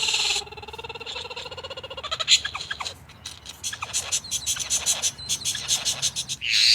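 Bird calls: a drawn-out pitched call for about the first two seconds, then a quick run of clicking chirps and scattered short calls, ending in a loud harsh call.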